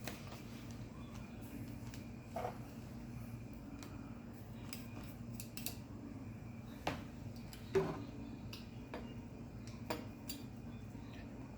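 A few light clicks and knocks of kitchen utensils being handled, four or so scattered over several seconds, over a steady low hum.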